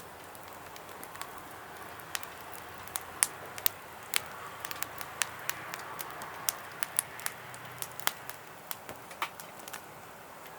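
Wood fire crackling in a campfire fire pit: irregular sharp pops and snaps over a low hiss.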